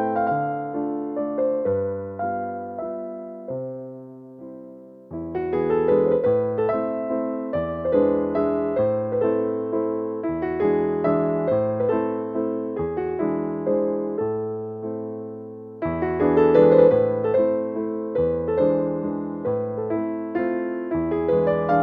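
Background piano music: a gentle melody on an electric piano, fading briefly a few seconds in and picking up again.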